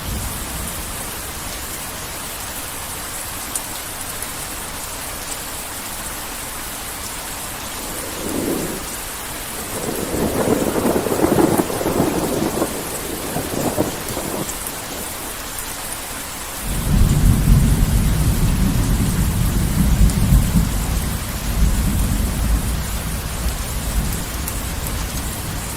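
Heavy rain falling steadily with thunder. A crackling peal swells about eight to fourteen seconds in, then a deep low rumble starts suddenly past the middle and rolls on, easing a little near the end.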